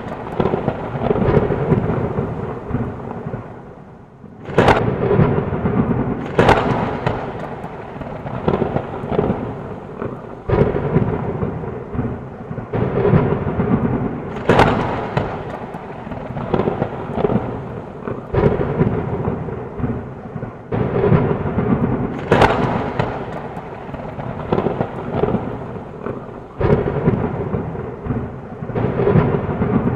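Thunderstorm: heavy rain with frequent close thunder cracks and rumbles, a sharp crack every second or two, with a brief lull about four seconds in.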